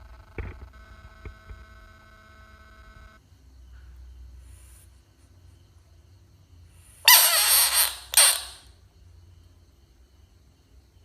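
A frog calling twice, loud and harsh: a rasping call about a second long, followed at once by a shorter one about seven seconds in. A faint steady tone stops about three seconds in.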